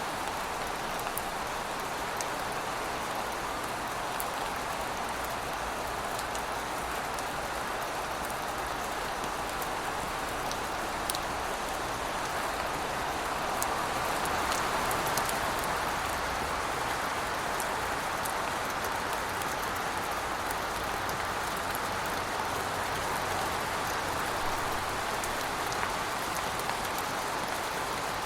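Steady rain falling, an even hiss with scattered sharp ticks of individual drops; it swells slightly about halfway through.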